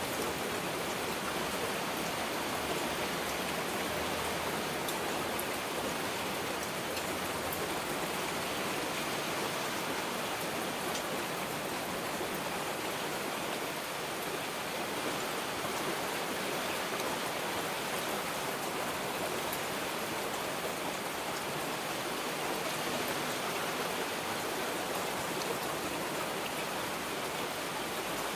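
Heavy rain falling steadily, an even wash of noise with faint drop ticks. No thunder.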